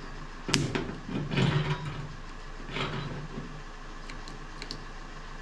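Spot-welding dent puller being worked against a car's steel body panel: a sharp click about half a second in, then a rasping scrape and a shorter one, followed by a few faint ticks. The welding tip is being set in contact with the panel.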